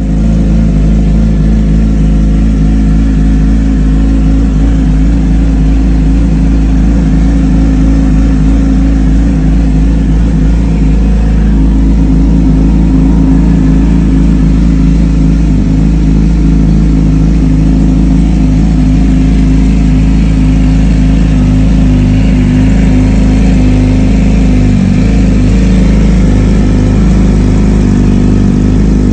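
2017 Yamaha YZF-R6's inline-four engine idling steadily through an M4 slip-on exhaust while warming up.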